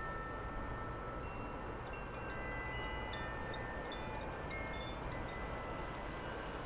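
Wind chimes ringing: several clear tones struck at irregular moments and left to ring, overlapping one another, over a steady low background noise.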